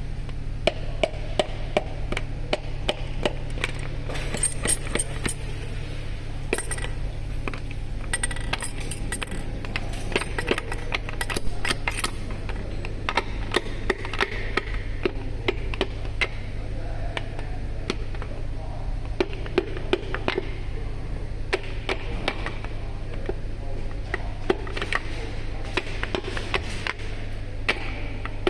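Metal engine parts and hand tools clinking and tapping many times, some strikes ringing bright and metallic, over a steady low hum.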